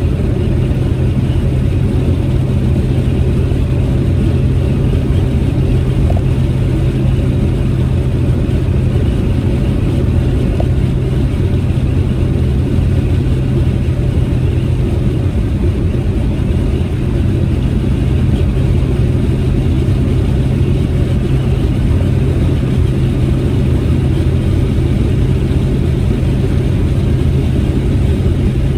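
Proton Saga MC2 car driving at a steady cruise: a constant engine drone with even road and tyre noise, no change in pitch or level.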